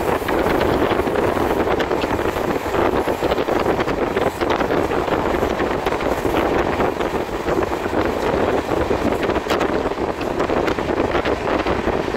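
Wind rushing over the microphone, with the steady rumble and rapid clatter of steel wheels on rail, from the open door of a moving train as a freight train of tank wagons passes close alongside on the next track.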